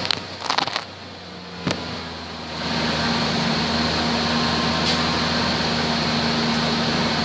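1999 Ford Ranger engine running at idle. A few clicks and knocks come in the first couple of seconds while the sound briefly drops, then the engine's steady idle comes back louder.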